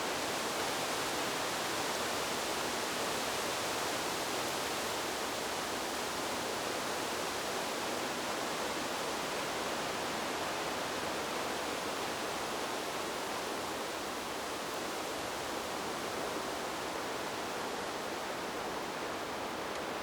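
Wind blowing steadily through trees: an even, unbroken rushing hiss with no distinct gusts, easing slightly about two-thirds of the way in.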